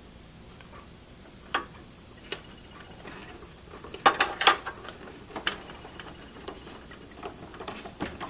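Irregular light clicks and taps, a few single ones at first and a cluster of louder ones from about four seconds in: SATA cables and plastic connectors being handled inside a desktop computer case.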